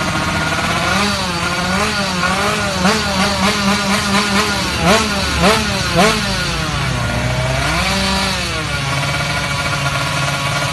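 Motorcycle engine revved hard through its exhaust, idling between revs. A run of quick throttle blips comes first, then three sharper revs, then a slower rise and fall before it settles back to a steady idle.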